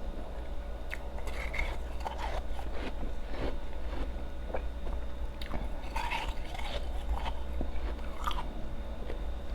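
A person biting and chewing ice close to the microphone: irregular crisp crunches, some single and some in quick clusters. A steady low hum runs underneath.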